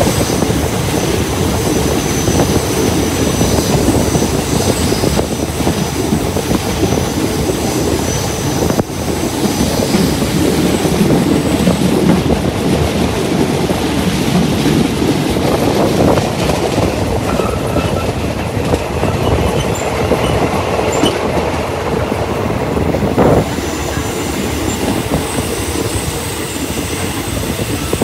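Passenger train running along the track, heard from on board: a loud, steady rumble of wheels on rails, with thin high-pitched squealing tones for much of the time.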